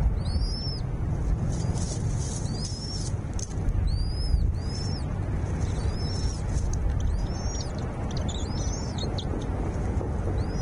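A small bird calling with short, high chirps that rise and fall, repeated about once a second, over a steady low rumble.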